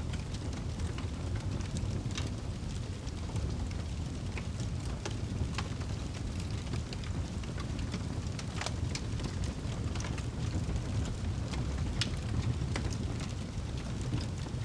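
Wood fire burning in a fireplace: a steady low rumble of flames with irregular sharp crackles and pops, two louder pops about nine and twelve seconds in.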